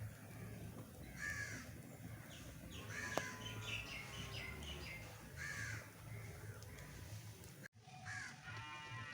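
A bird calling over and over, short harsh calls about every second and a half, over a steady low rumble. One sharp crack about three seconds in, and the sound cuts out for a moment near the end.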